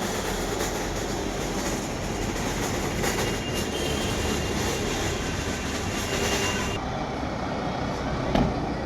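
Steady rumbling noise of a moving vehicle, with a single sharp click near the end.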